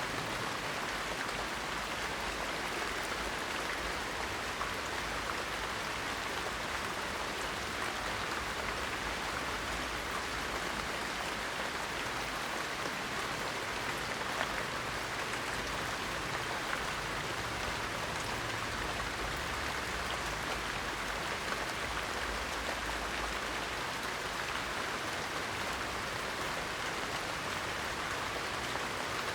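Steady rain: a dense, even hiss with faint patter of individual drops.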